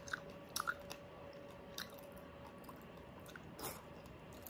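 Quiet chewing of food close to the microphone, with a few soft clicks and small crackles, a slightly louder one about three and a half seconds in. A faint steady hum sits underneath.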